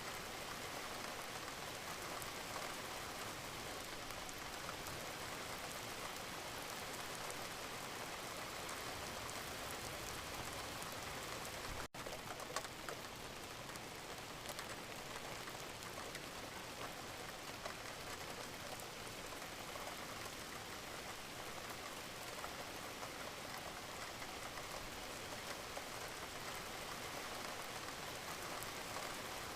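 Wood fire burning in a fireplace: steady crackling and hissing, with many small pops and snaps. There is a brief dropout about twelve seconds in, followed by a sharper pop.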